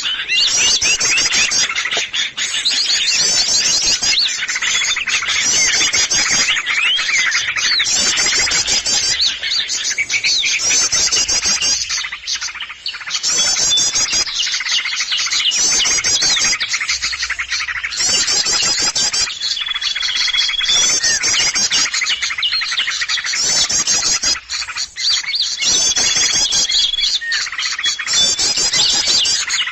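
A dense chorus of small songbirds chirping and twittering, played as a lure call to draw in small wild birds. Rapid high trills repeat throughout, and a clear held whistle comes in twice, about two-thirds of the way through and again near the end.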